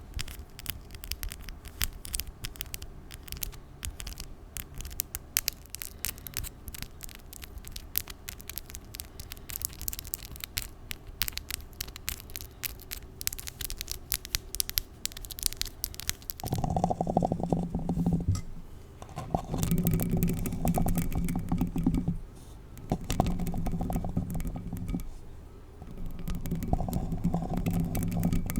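Long false nails clicking and scratching in a fast, dense patter of taps. About sixteen seconds in, this gives way to four louder strokes of nails scratching directly on a bare Blue Yeti microphone, each lasting about two seconds and heard as a deep, low rubbing with short pauses between them.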